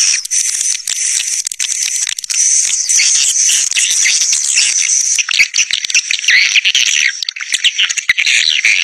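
A flock of swiftlets twittering in a dense, unbroken chatter of rapid, overlapping high chirps. This is a swiftlet caller recording, the lure sound played to draw a flock of edible-nest swiftlets to roost and nest.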